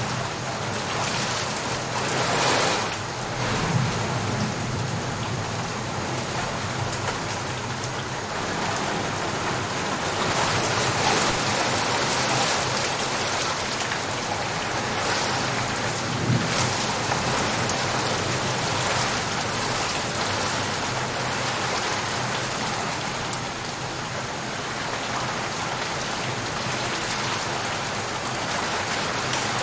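Steady rain falling on a surface, an even patter that swells slightly at times.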